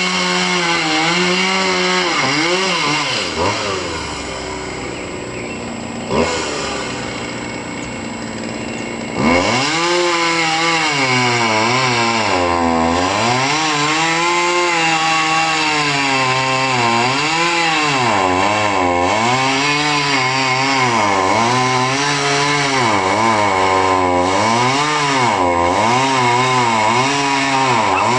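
Chainsaw cutting, its engine pitch repeatedly dipping and rising every second or two under load. About four seconds in it falls back to a lower, quieter running for several seconds, then revs up sharply and cuts again.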